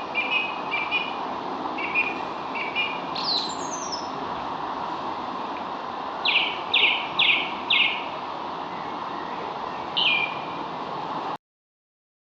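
Songbirds chirping: short repeated chirps, a falling trill, then a run of four quick down-slurred notes and a single call, over a steady background hiss. The sound cuts off suddenly about eleven seconds in.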